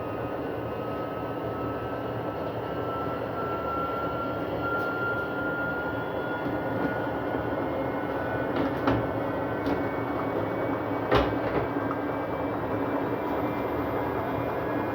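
Arctic washing machine running in service mode, its drum and motor giving a steady mechanical running sound with a faint whine that rises slightly in pitch. Sharp knocks come about nine and eleven seconds in, the kind of bad noises the machine makes in a suds lock.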